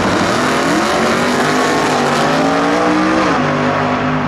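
Drag-racing muscle car's engine accelerating hard down the strip. Its pitch climbs for about three seconds, drops at a gear change, then pulls again.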